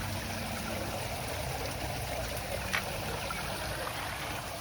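Water running steadily down a memorial water feature, an even splashing trickle. One short click sounds a little past halfway.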